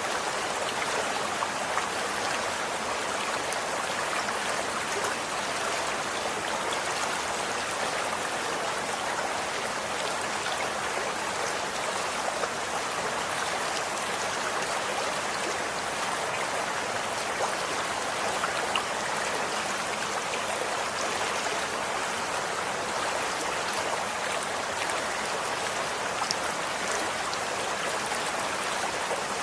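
Running water flowing steadily, a stream-like rush with a fine splashing patter on top.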